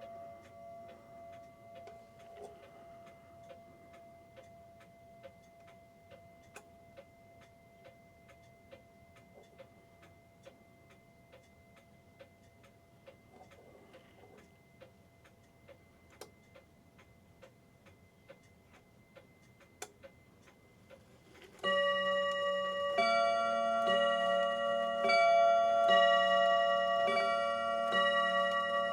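New England Clock Company clock movement ticking steadily, about two ticks a second, under a faint lingering ring. About 22 seconds in, the clock's chime starts playing, much louder, a melody on several ringing tones.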